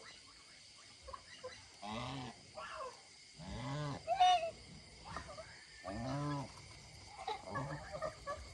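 Geese calling: several separate calls, each rising and falling in pitch, a second or two apart, with one higher honk about four seconds in.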